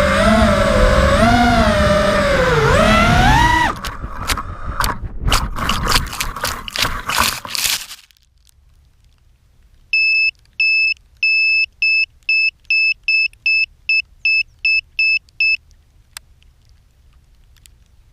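FPV racing quadcopter's motors whining, their pitch rising and falling with the throttle, then breaking up into crackling a little under four seconds in and cutting out by about eight seconds. After a pause, a beeper sounds a run of high beeps, coming slightly faster, for about five seconds.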